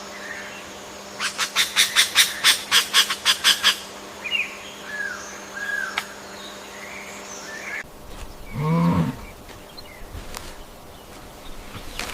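A bird calling in a rapid run of about a dozen harsh notes, then a few faint chirps. Near the end comes a short, low animal call.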